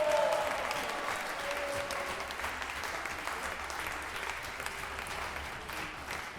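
Audience applauding: a dense spread of clapping that eases off slightly toward the end.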